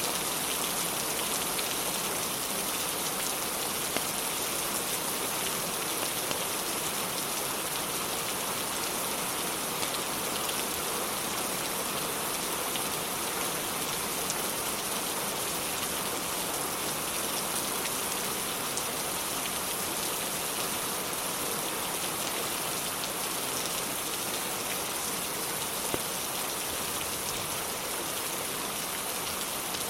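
Steady rain, an even hiss with no let-up, broken by a couple of brief ticks.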